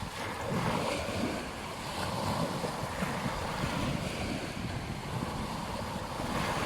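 Waves washing onto a beach, a steady surf noise that swells and eases, with some wind on the microphone.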